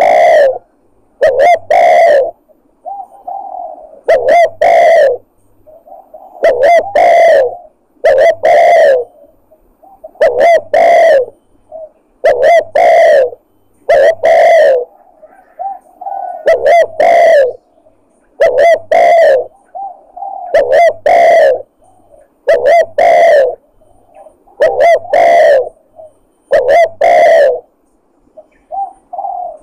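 Spotted dove (tekukur) lure call: a recorded cooing phrase played loud and repeated about every two seconds, used to draw wild doves in.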